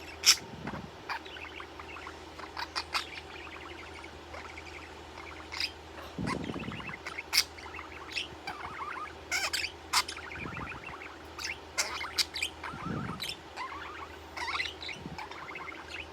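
Budgerigar chirping and chattering in short warbling runs, with many sharp clicks scattered through. There are two dull low thumps, about six and thirteen seconds in.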